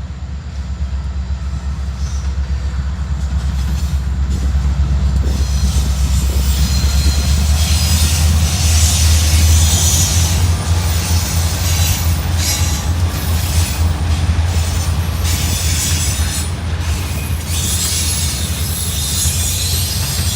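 A train rolling past with a steady, heavy low rumble, and high-pitched wheel-on-rail noise that swells from about six seconds in.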